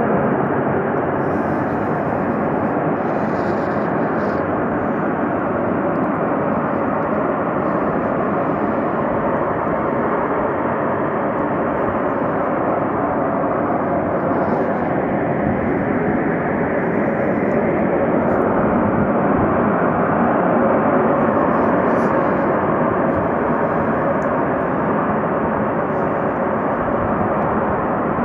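Combined heat and power plant venting high-pressure steam to atmosphere during a pressure release: a loud, steady rushing hiss that swells slightly a little past the middle.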